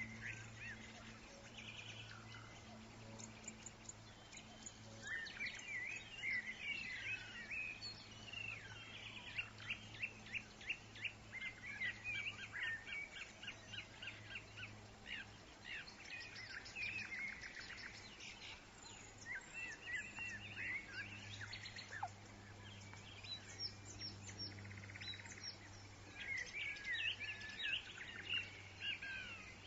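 Woodland birds chirping and trilling, several calls overlapping in quick runs, over a faint steady low hum.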